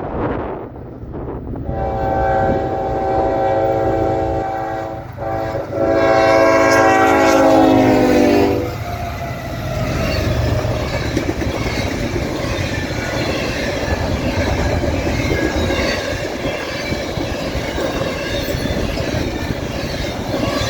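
Diesel locomotive horn on the lead unit of a Norfolk Southern intermodal train, sounding in separate blasts with the last one long. Its pitch drops about eight seconds in as the locomotive passes. A steady rumble and clatter of the passing train follows.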